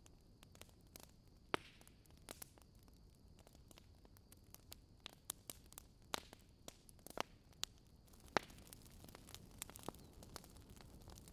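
Wood campfire crackling: irregular sharp pops and snaps, the loudest about a second and a half in and about eight seconds in, over a faint steady hiss.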